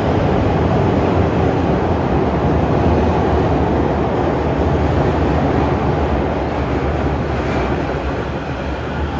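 Electric train running along the platform: a loud, steady rumble of wheels and motors that slowly eases off over the last few seconds.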